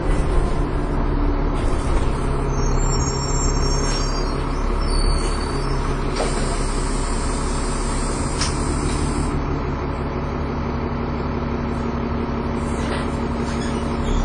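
Dennis Trident 2 double-decker bus heard from onboard, its engine and drivetrain running steadily under way. From about six seconds in, an air hiss from the brake system lasts about three seconds. In the second half a steady engine tone grows stronger.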